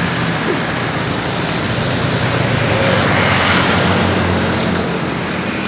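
Steady jet aircraft engine rumble and hiss, swelling slightly about halfway through.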